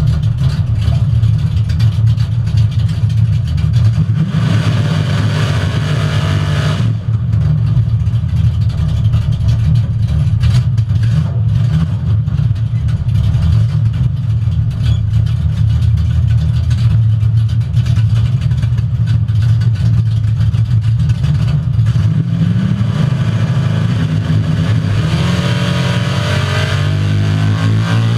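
Small-block Chevy V8 of a 1968 Camaro drag car running loud and continuous. A brighter upper layer of its sound cuts off abruptly about seven seconds in, and the engine pitch rises from about 22 seconds on.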